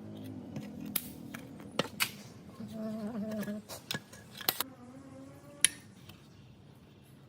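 Tools and metal parts being handled: a string of sharp clicks and clinks, the loudest a little past five seconds in, with a brief wavering tone about three seconds in.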